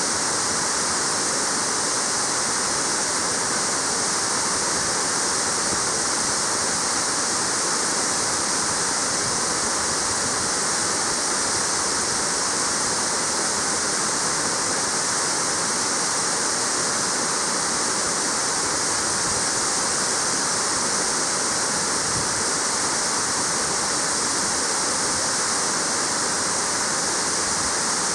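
Marugami Falls, a waterfall, pouring steadily: a constant, even rush of falling and splashing water.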